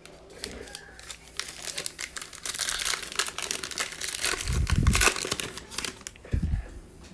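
Plastic trading card pack wrapper being torn open and crinkled in the hands, a dense crackling for a few seconds, with a couple of dull bumps near the end.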